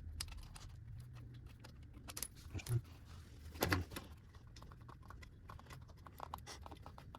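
Light metallic clinks and taps of hand tools and bolts while the engine is being unbolted from a small dirt bike's frame, with two louder knocks a little before the middle.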